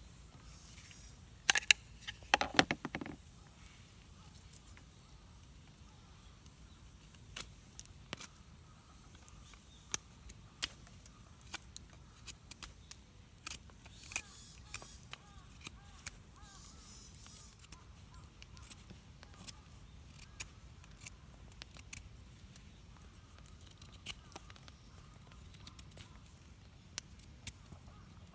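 Campfire crackling, with irregular sharp pops and snaps. A short, louder burst of strokes comes about two seconds in.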